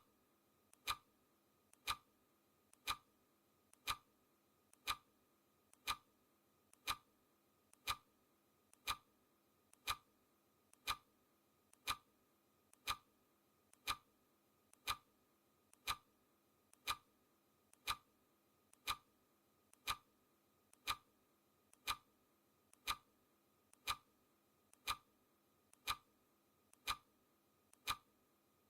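Clock ticking sound effect, one tick a second, steady and even; each tick is a faint click followed closely by a louder one.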